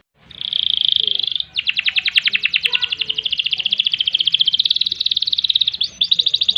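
Domestic canary singing: a short dense phrase, then a long, rapid rolling trill of fast repeated notes held for several seconds, broken briefly near the end before it picks up again.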